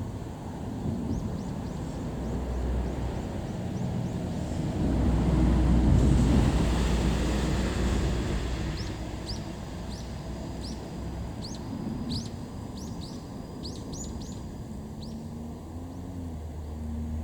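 A vehicle passes by, its low rumble building to a peak about six seconds in and then fading away. Afterwards a small bird chirps repeatedly in quick short notes.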